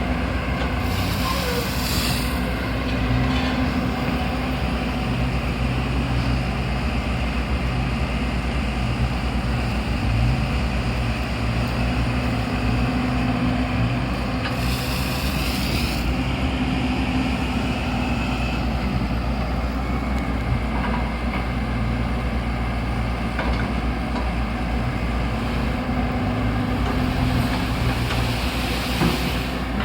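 Excavator's diesel engine running steadily, with two brief bursts of high hiss, about a second in and about halfway through.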